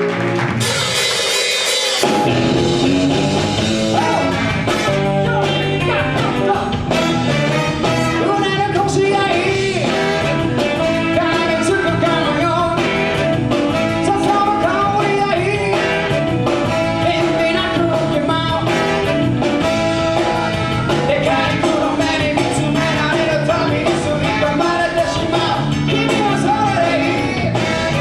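Live band playing with a singer, drums and full band in a rock-and-roll/ska style. For about the first two seconds the bass drops out, leaving only bright high sound, then the full band comes back in.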